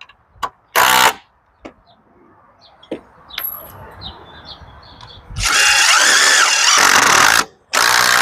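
Cordless power drill driving screws into wood, likely fixing hinges onto a garden gate: a short burst about a second in, a few light clicks, then two long runs of the motor near the end, separated by a brief pause.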